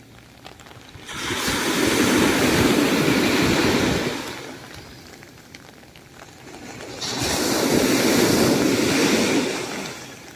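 Heavy typhoon surf: two big waves break and wash up the beach, one about a second in and the next about seven seconds in, each surging, holding for a couple of seconds and then fading.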